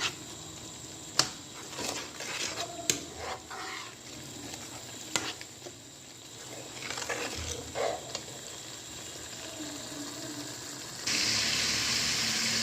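Spoon scraping and clicking against a kadai as an onion-tomato masala fries in oil, over a faint sizzle. About 11 seconds in, a louder steady sizzle starts suddenly.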